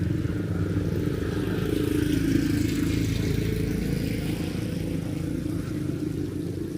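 A motor vehicle's engine running close by, a little louder about two seconds in and then slowly fading, over the steady hiss of heavy rain.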